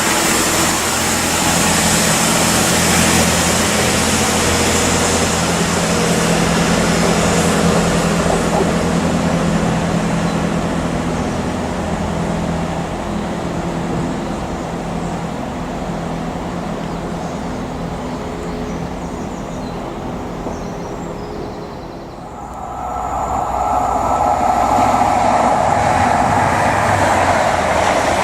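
A train running past on the main line, engine note and wheel-on-rail noise loud at first and fading away over about twenty seconds. Then a second train approaches and grows loud again near the end.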